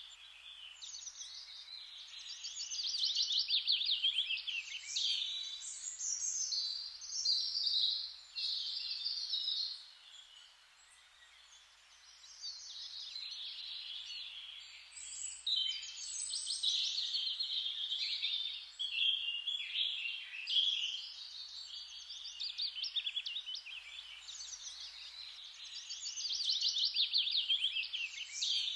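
Songbirds singing in a dense, overlapping chorus of fast trills and chirps, with a brief lull about a third of the way in.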